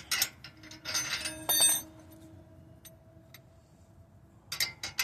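Metal clinks and clanks from the brake rotor and hardware being worked on the wheel hub. The loudest clank comes about a second and a half in and leaves a faint metallic ring, and a few more clicks follow near the end.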